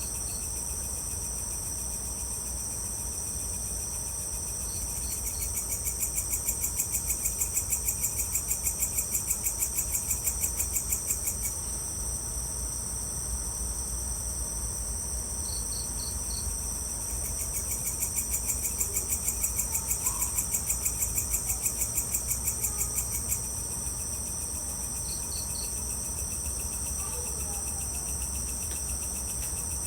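Evening chorus of crickets and other insects: a steady high-pitched trill, with two spells of a louder pulsing call of about four pulses a second, each lasting about six seconds, and a short three-note chirp every few seconds. A steady low rumble runs underneath.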